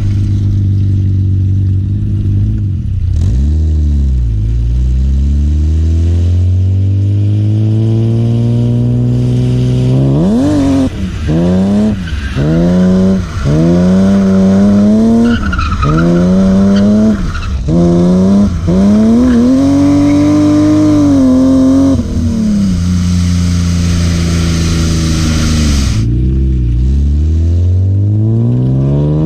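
BMW E36 M3's S50B30 straight-six engine revving hard while drifting: it winds up through a long pull, then rises and drops sharply about once a second for several seconds, settles, dips and winds up again near the end. Tyre squeal runs under the engine.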